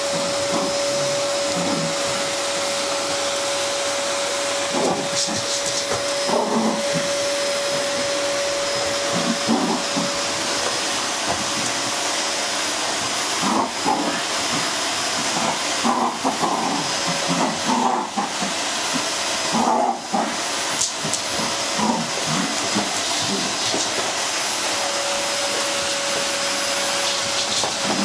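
Household vacuum cleaner running steadily with a constant whine, interrupted by short irregular louder sounds through the middle.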